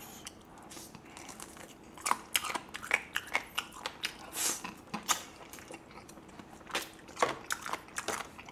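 Close-miked wet biting and chewing of a roasted chicken drumstick, a run of short crackling clicks and smacks that come in clusters, with a faint steady hum underneath.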